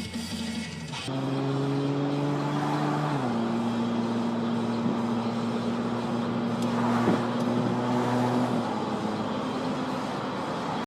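Car engine and exhaust drone while driving, over tyre and road noise. The engine note steps down in pitch about three seconds in, then holds steady.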